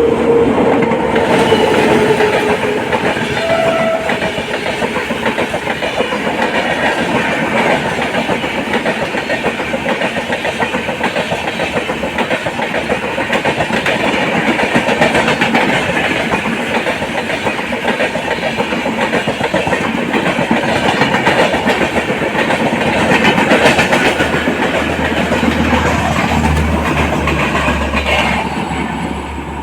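LHB passenger coaches running at speed on the rails: a loud, steady rush with rapid clatter from the wheels. A faint steady tone sounds in the first couple of seconds.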